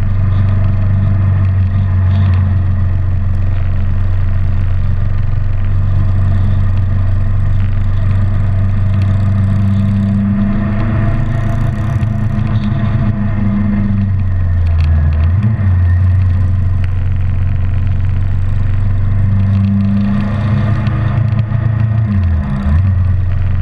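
Kawasaki Ninja 650R parallel-twin engine running steadily at road speed, heard from on the bike. The engine note drops briefly twice, about fifteen and twenty-two seconds in.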